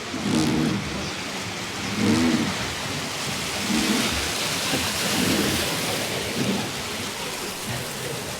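River water rushing and splashing around a flat-bottomed wooden boat running the Hozu River rapids, a steady hiss that swells in the middle, with voices heard now and then over it.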